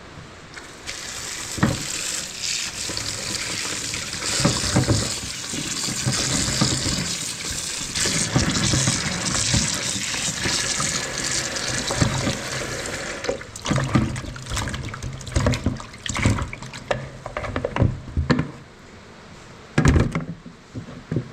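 Water running from a tap into a sink for about twelve seconds. After it stops comes a stretch of intermittent splashing and handling knocks, ending with a louder knock.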